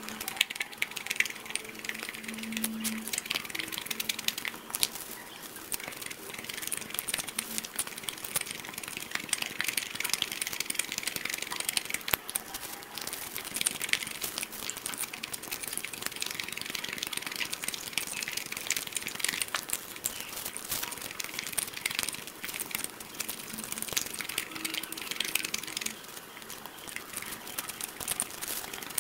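Close-miked chewing and biting of whole cooked snakes: a dense, irregular stream of sharp crackling clicks.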